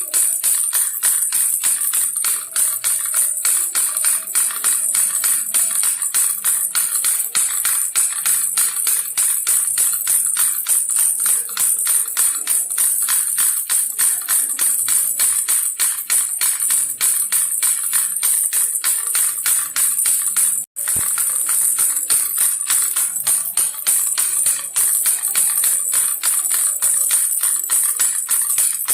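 Toy pig baby rattle shaken fast and without pause, giving a dense, bright jingling rattle. It cuts out for an instant nearly three-quarters of the way through.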